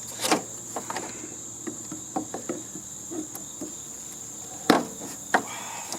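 Scattered knocks and clicks as the plastic housing of a heating and air-conditioning unit is worked at by hand. The sharpest knock comes a little before five seconds in. Under it all is a steady, high chirping of crickets.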